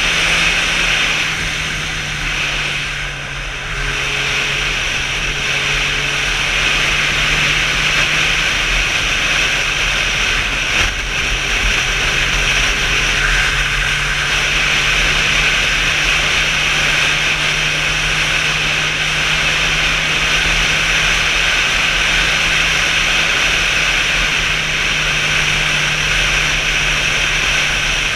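Motorcycle engine running at a steady speed under a continuous rush of wind noise while riding, with a brief dip in level about three seconds in.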